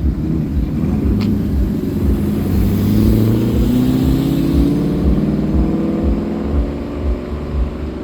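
GM LS V8 engine revved slowly up and held, its pitch climbing for a few seconds and then easing off slightly over a pulsing low rumble.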